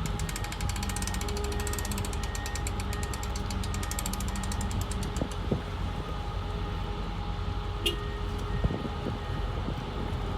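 A machine running steadily with a low hum, a fast even ticking rattle that fades out about halfway through, and a few separate knocks near the end.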